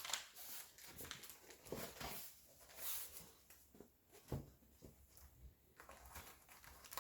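Faint rustling and soft taps of a diamond-painting canvas being rolled up by hand, in short scattered bursts.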